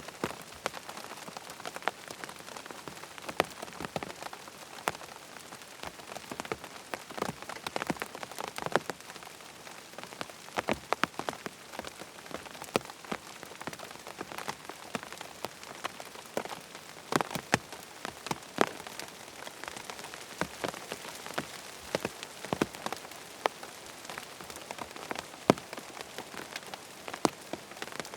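Rain falling on a tent: a steady hiss of rain with frequent irregular sharp taps of individual drops striking the fabric.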